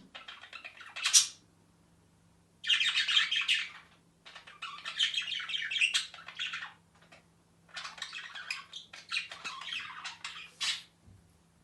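Lovebirds chattering, a rapid stream of shrill chirps and squeaks in four bouts with short pauses between them.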